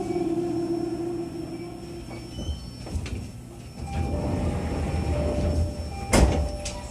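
Toei 10-300 series train, heard from inside, slowing to a stop: the motor whine falls in pitch and fades. About four seconds in a low rumble with two steady tones starts, and near the end a loud clunk comes, fitting the sliding doors opening at the station.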